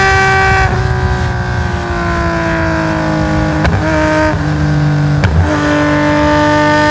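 Nissan S20 twin-cam straight-six racing engine at high revs, lifting off about a second in, its note falling as the car slows. Two sharp clicks with steps in pitch near the middle, as gears change, then it pulls again with the note slowly climbing.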